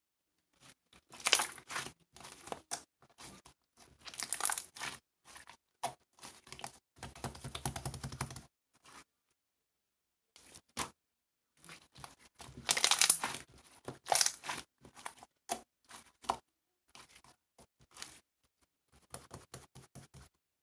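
Crinkling and tearing sounds in irregular bursts, with small clicks between them and a longer rustle about seven seconds in.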